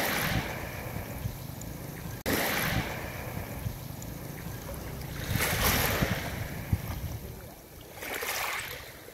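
Small waves washing onto a pebble beach, a swell of hiss every few seconds, over a low rumble of wind on the microphone.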